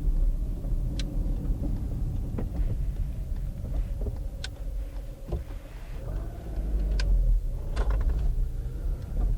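Car cabin while driving: a steady low engine and road rumble, with a few sharp clicks scattered through.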